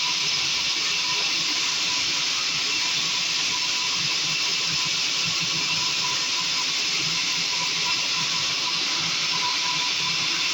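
Sawmill saw cutting through wood, a steady unbroken hissing noise with a faint high whine.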